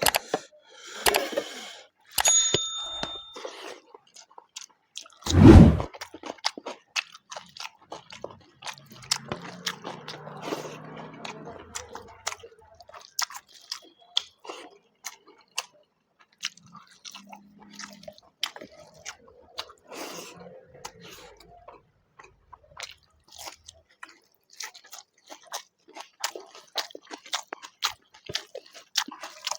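Close-miked eating of rice, mutton curry and salad: steady, irregular chewing and crunching with many small wet mouth clicks. A short ringing clink comes about two seconds in, and a loud thump about five seconds in.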